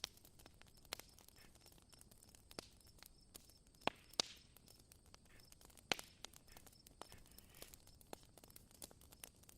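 Faint crackling of a wood fire just catching: sparse, irregular sharp pops, a few of them louder, about four seconds and six seconds in.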